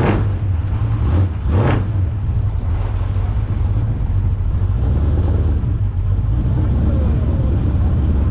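Car engine idling with a steady deep rumble, with a few brief sharp noises in the first two seconds.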